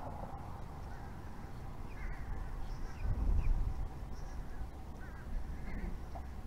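Birds giving short, sharp calls several times over a steady background hiss, with a low rumble swelling about three seconds in.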